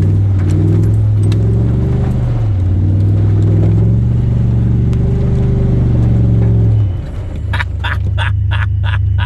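A four-wheel-drive vehicle's engine revving hard and holding high revs as it pushes through deep mud, dipping briefly a couple of times. About seven seconds in the revs drop, and a quick rhythmic clatter of about three strokes a second sets in as the vehicle bogs down and gets stuck.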